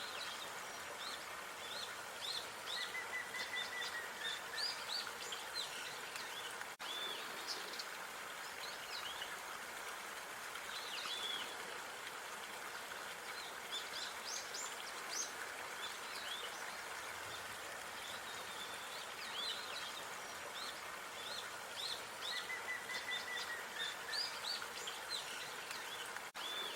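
Outdoor park ambience: many small birds chirping in short, high notes with an occasional brief trill, over a steady hiss of distant background noise. The sound drops out for an instant twice, where the looped recording joins.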